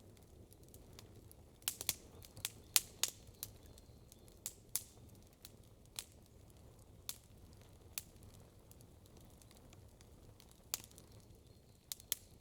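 Wood campfire crackling: irregular sharp pops, bunched together about two to three seconds in, then scattered single pops, over a low steady hiss of the burning fire.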